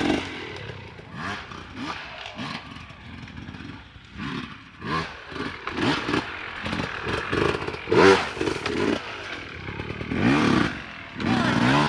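Dirt bike engines revving over and over, pitch rising and falling with each burst of throttle. The loudest surges come about eight seconds in and again near the end.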